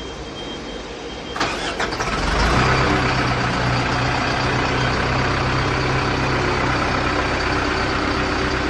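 Backhoe loader's diesel engine cranking and catching about two seconds in. It flares up briefly, then settles into a steady idle.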